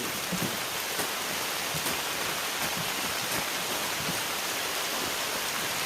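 Steady downpour of rain, an even hiss with faint scattered drop ticks.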